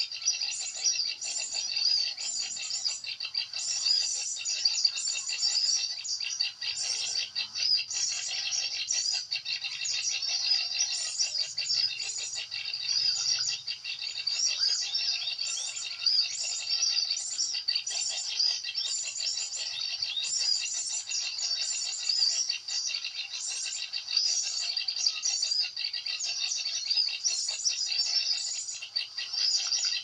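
Small songbirds chirping: a dense, steady stream of short, high calls repeated many times a second.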